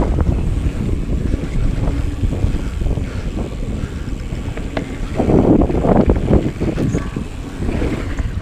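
Wind buffeting the microphone of a camera on a moving mountain bike, with rumbling and irregular rattles from the bike going over rough trail; louder for a stretch about five seconds in.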